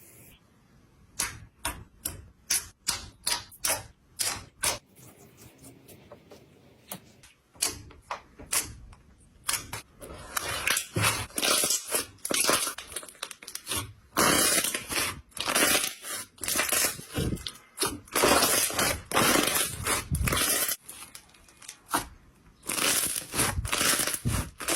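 Slime being squeezed and pressed by hand: a run of sharp pops and clicks for the first several seconds, then dense, busy crackling from about ten seconds in.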